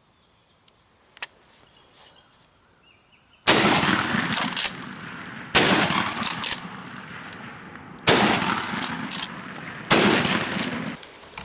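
Four shotgun shots, roughly two seconds apart, each trailing off in a rolling echo: hunters firing at a jake turkey as it flies off.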